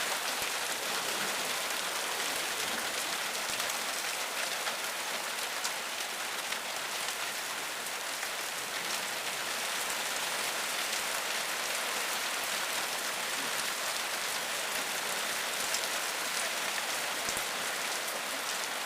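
Heavy rain pouring down steadily, a dense patter of big drops.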